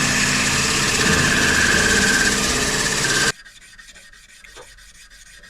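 Loud steady abrasive rubbing on wood for about three seconds, cutting off suddenly, then faint quick scraping strokes.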